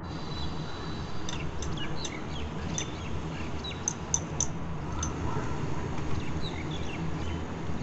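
Small birds chirping, many short high calls in quick succession, over a steady low outdoor hum.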